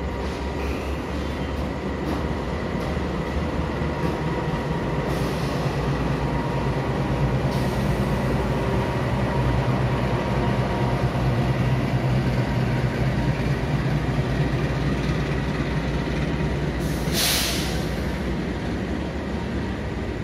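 Diesel-electric locomotive pulling a passenger train into the station: a steady engine and rolling rumble that grows louder as the locomotive and coaches pass, then eases, with a short sharp hiss about three-quarters of the way through.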